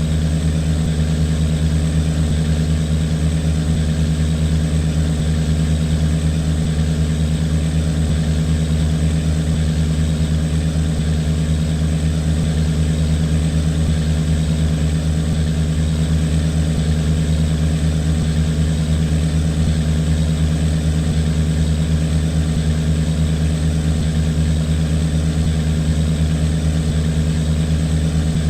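A boat's engine runs steadily at a constant speed, with a low, even drone that neither rises nor falls. The boat is travelling empty, with no cargo aboard.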